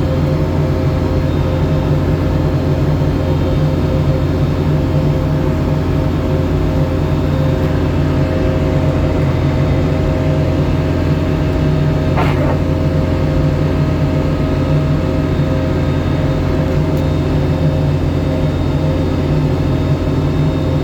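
Engine of a snow-clearing machine running steadily at constant speed, a loud low hum with a fixed whine above it. There is one brief knock about twelve seconds in.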